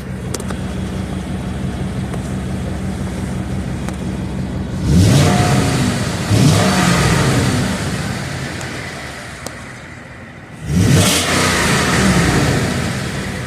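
2014 Ford F-150's 5.0 L V8 through an exhaust with the resonator deleted and the muffler packing picked out, idling and then revved: two quick blips about five and six seconds in, settling back, and another rev about eleven seconds in that falls away near the end.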